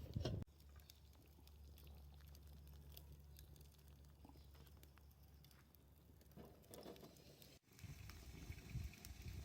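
Faint, sparse crackling of a wood campfire over a low steady hum. After a cut near the end, some low knocks and rumbling from handling come in.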